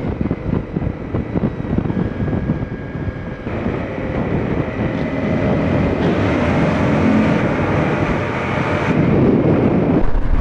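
Motorcycle riding at speed, most likely a single-cylinder Honda CRF 250L: the engine runs under a rush of wind over the microphone. It grows louder and brighter about a third of the way in and eases just before the end.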